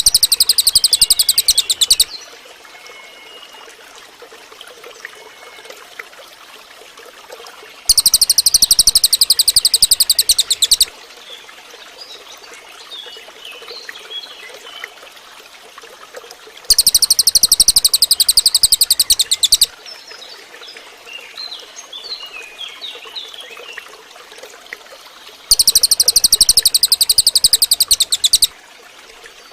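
Cililin bird song: a loud, very rapid high-pitched trill lasting about three seconds, repeated about every nine seconds. Faint chirps of other birds and a trickling stream run between the trills.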